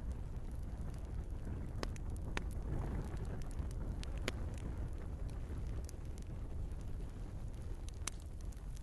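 Log fire in a fireplace crackling, with scattered sharp pops over a steady low rumble of flames. The sharpest pops come about two seconds in, at about four seconds, and near the end.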